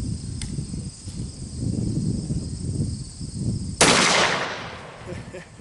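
A single rifle shot from a 6.5 Creedmoor bolt-action rifle (Howa 1500) firing a hot-loaded 123-grain round, about four seconds in. The report is sudden and loud, then echoes and fades over about a second and a half.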